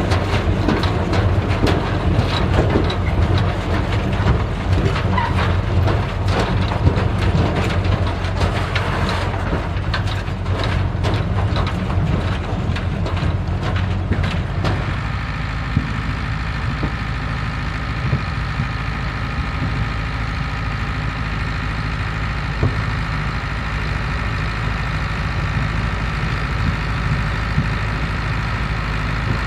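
Vintage tractor engines running under harvesting machinery, with a busy clattering, clicking texture in the first half. About halfway this gives way abruptly to one engine running steadily.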